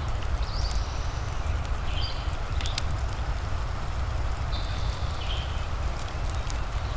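Fireplace and rain ambience: a steady low rumble and even patter, with sharp crackles and pops from the fire scattered through it. Short high chirps come several times, about a second or two apart.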